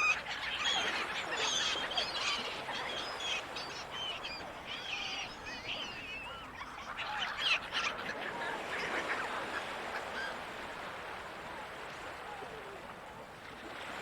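Gulls calling, many short wavering cries overlapping at first, then thinning out after about eight seconds. Underneath runs a steady wash of the sea.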